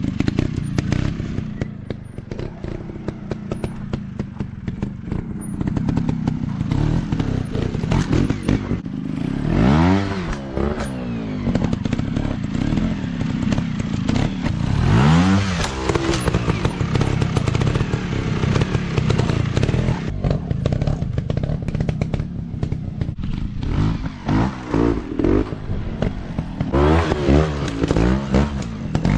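Small dirt bike engines running hard, blipped up and down in quick rising and falling revs about ten seconds in, again around fifteen seconds, and several times near the end, with a constant rattly clatter throughout.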